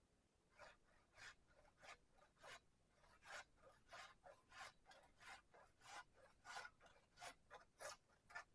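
Faint, regular rasping strokes, about thirteen of them at roughly one and a half a second, like something being scraped or rubbed back and forth.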